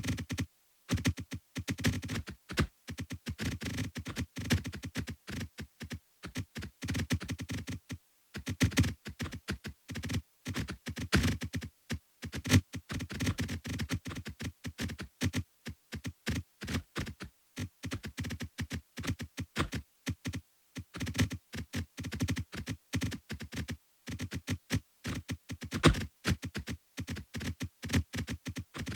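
A dense, irregular stream of short synthesized clicks and blips, several a second, with brief pauses between runs.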